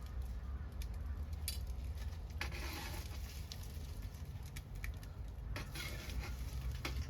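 Scrap-wood bonfire crackling: scattered sharp pops, with two brief hissing bursts about two and a half seconds in and near six seconds, over a steady low rumble.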